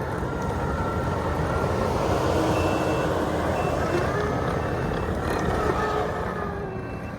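Kubota SVL97-2 tracked skid steer's diesel engine running at working speed, with its backup alarm beeping about once a second from a couple of seconds in.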